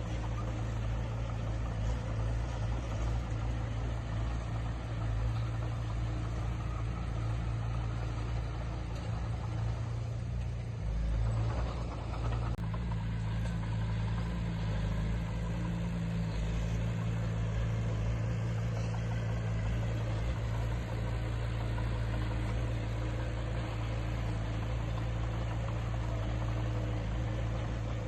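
Diesel engine of heavy earthmoving equipment running steadily, briefly louder about eleven seconds in.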